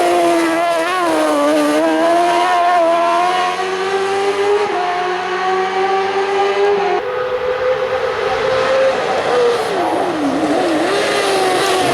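Hill-climb race car engine running hard at high revs. Its pitch wavers and shifts abruptly about five and seven seconds in, then dips and climbs again near the end.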